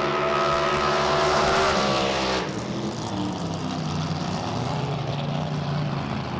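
Drag boat racing engine running loud at high power, its pitch sinking slightly. About two and a half seconds in, it cuts off abruptly to a lower, rougher engine sound.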